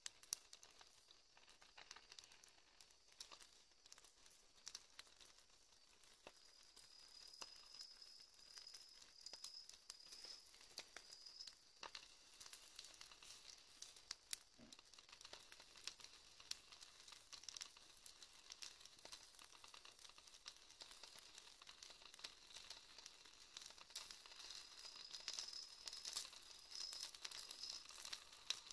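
Faint crackling of a wood campfire, with many small scattered pops. A thin, high, wavering whistle sounds twice, once for several seconds about a quarter of the way in and again near the end.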